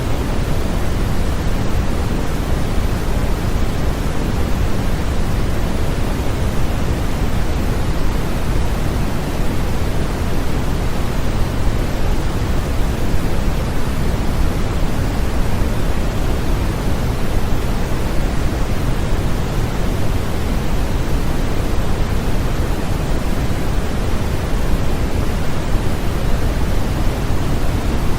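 Steady white noise for sleep, a constant even hiss weighted toward the low end, with no change in level or character.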